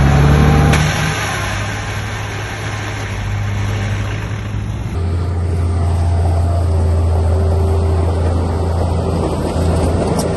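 Heavy construction machine's diesel engine running, revved high in the first second, then settling to a steady low drone. The sound changes abruptly about halfway through.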